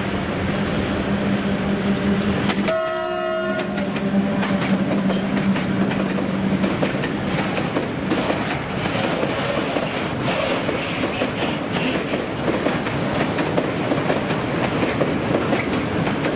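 Freight train passing close by: the locomotive hums steadily and sounds a horn blast of about a second roughly three seconds in. Then the open freight wagons rattle past, their wheels clicking rapidly over the rail joints.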